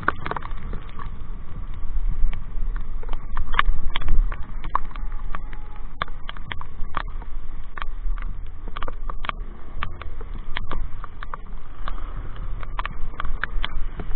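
Wind rumbling on a motorcycle helmet microphone while riding, with many irregular sharp ticks of raindrops striking the helmet and microphone.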